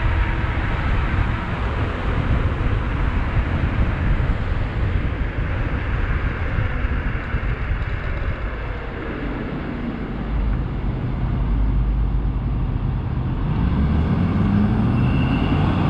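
Steady wind rush and road noise on a GoPro 7's built-in microphone while riding an electric bike, with traffic close by; a faint rising tone comes through near the end.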